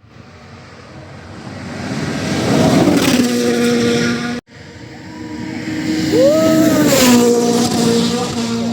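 Rally cars at full speed on a gravel stage, in two quick clips. Each car's engine note grows louder as it approaches and drops in pitch as it passes, the first about three seconds in. The second car's revs rise and then fall around six to seven seconds in before it goes by.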